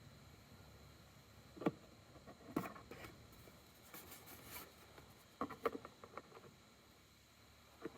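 Motor oil glugging out of a plastic jug as it is poured slowly into a small engine's fill opening: a scatter of short, irregular gulps and knocks over a faint steady background.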